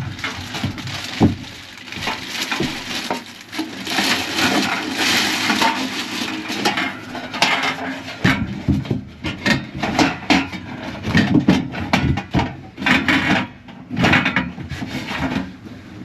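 Wooden panels knocking and scraping as they are handled and fitted into place, with irregular clattering throughout.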